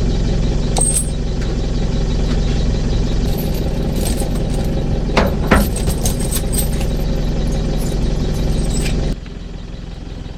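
A vehicle engine running steadily, with a few light clicks or rattles about five seconds in. The engine sound cuts off suddenly about nine seconds in, leaving a quieter background.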